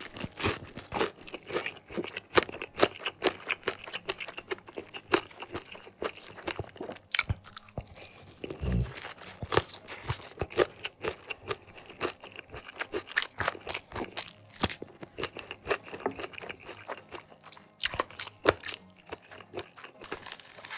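Close-up mouth sounds of eating crispy fried chicken: repeated crunching and wet chewing, in many short sharp bites. Near the end there is a denser crackling as the whole fried chicken's crust is pulled apart.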